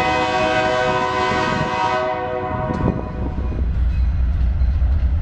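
Diesel freight locomotive's multi-chime air horn sounding one long blast, which fades out about two and a half seconds in. A steady low locomotive engine rumble then takes over as the train draws near.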